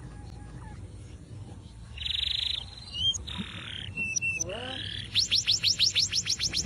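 Canary singing: a fast buzzing trill about two seconds in, a few short chirps and falling notes, then from about five seconds a loud rapid trill of repeated rising notes, about seven a second.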